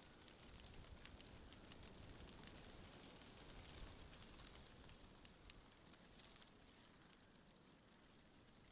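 Faint wind rustling through tree leaves: a soft steady hiss broken by many small, irregular ticks.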